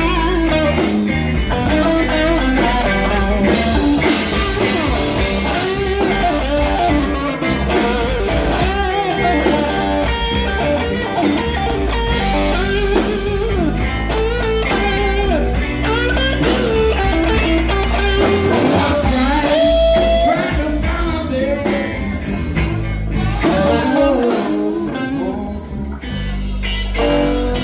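Live blues band jamming, a guitar playing lead lines over bass and drums with steady cymbal ticks; the band drops back briefly near the end before coming in again.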